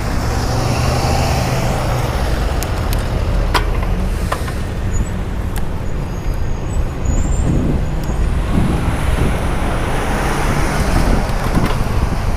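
Wind rushing over a microphone with no windscreen while cycling in city traffic, with the steady noise of passing cars and trucks beneath it.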